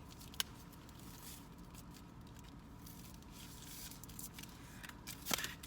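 Rustling and handling of fast-food packaging, with a sharp click about half a second in and a louder crinkle near the end.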